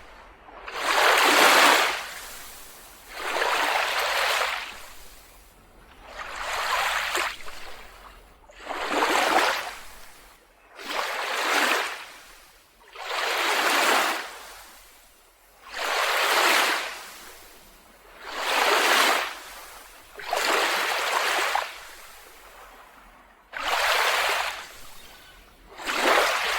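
Small waves washing onto a beach, a swell of surf rising and falling about every two and a half seconds.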